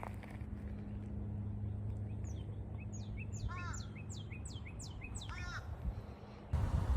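Birds calling: a run of quick, high, downward-sweeping whistled notes with a couple of harsher calls mixed in, over a steady low hum. Near the end the sound cuts suddenly to a louder, even noise.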